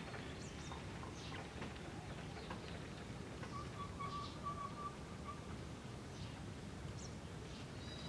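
Scattered short bird chirps and calls, with one steady whistled note held for about two seconds midway, over a low steady background rumble.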